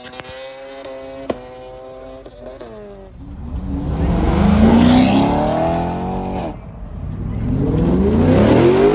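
Car engine accelerating hard away: a steady lower note for the first couple of seconds, then the pitch climbs loudly, drops about six and a half seconds in, and climbs again, like a gear change under full throttle.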